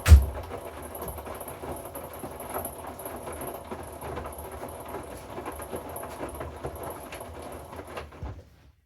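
Hoover inverter washing machine tumbling a wash load: a thump, then clothes and water sloshing in the turning drum with a faint high motor whine. The drum stops about eight seconds in, a pause in the wash action.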